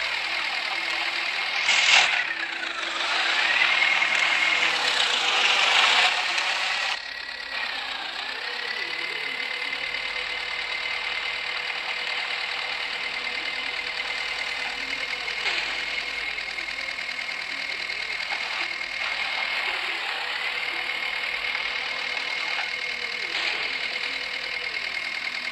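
Tractor engine running at high revs, its pitch sagging briefly and recovering several times, as an engine does when it is loaded and pulls through. A sharp loud burst about two seconds in, then louder noise for a few seconds.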